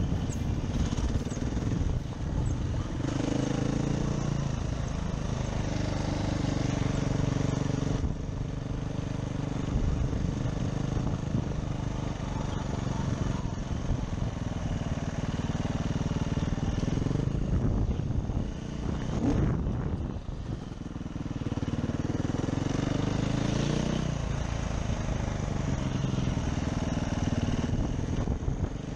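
Enduro motorcycle engine running at low speed, the revs rising and falling, with a brief lull about two-thirds through.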